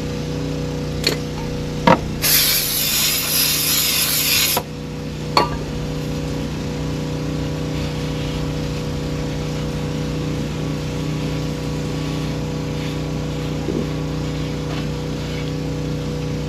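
A hiss of spray lasting about two and a half seconds, starting about two seconds in and cutting off sharply. Around it are a few sharp clicks and a steady machine hum.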